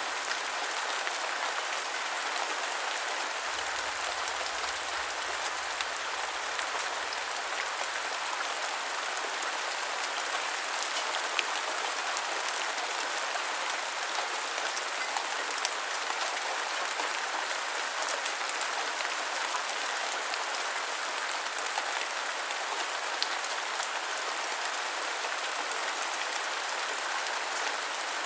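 Steady rain falling on a surface, a continuous hiss with scattered small drop ticks.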